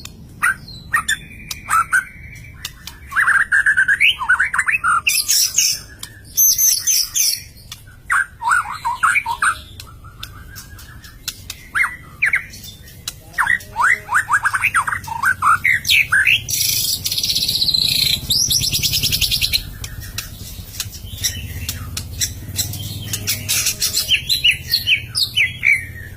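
White-rumped shama singing in full song: repeated bursts of rapid whistled and chattering notes with short pauses between phrases, and a long harsh, rasping stretch about two-thirds of the way through.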